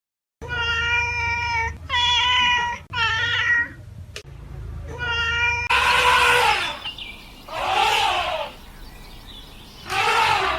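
An animal calling about six times, high-pitched and wailing. The first calls are drawn out and level in pitch, and the later ones rise and fall, over a low steady rumble.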